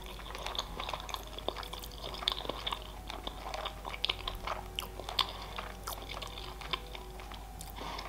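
Close-miked mouth sounds of a woman chewing a mouthful of sushi roll with her mouth closed: quiet, irregular wet smacks and clicks.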